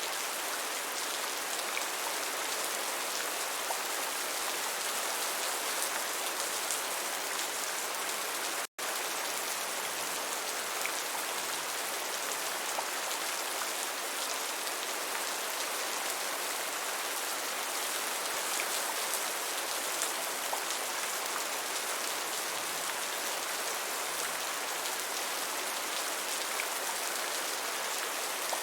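Steady gentle rain, an even hiss of fine drops pattering on a surface with faint individual drop ticks. The sound cuts out for an instant about nine seconds in.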